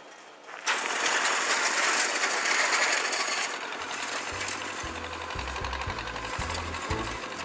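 A loud, dense rattling noise sets in about a second in and holds. About four seconds in, the low bass line of a song starts beneath it.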